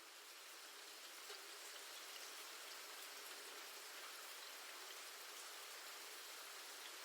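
Faint, steady rain with light scattered patter, slowly growing a little louder.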